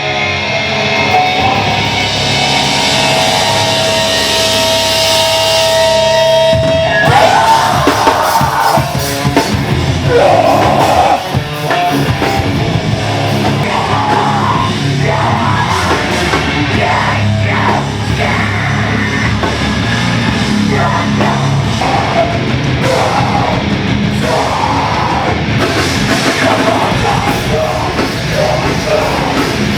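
Loud heavy rock music with yelled vocals, in the style of hardcore punk. A long note is held through the first several seconds, then the full band comes in with shouting.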